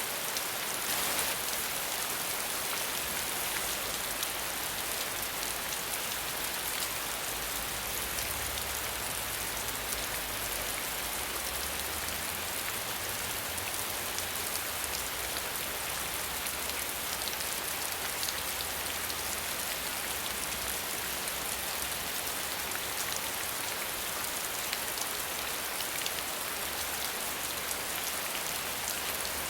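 Steady rain falling without thunder, a dense even hiss of many fine drop ticks.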